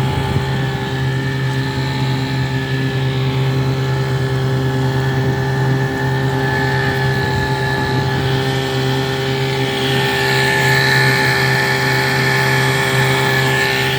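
Restored Veterok-8 two-stroke outboard motor running steadily, a little louder from about ten seconds in.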